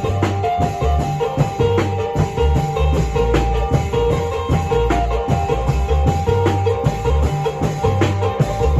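Isan folk music played live: a phin (plucked Isan lute) playing a lively melody over long-drum (klong yao) percussion and low bass notes.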